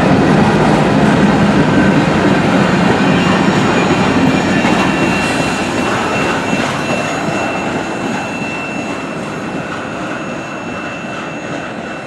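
Railroad cars rolling past on the rails and fading away as the train recedes, with a thin, steady high squeal from the wheels.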